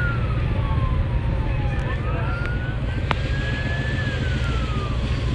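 A siren wailing, its pitch rising and falling in slow cycles about four seconds long, over a steady low vehicle rumble.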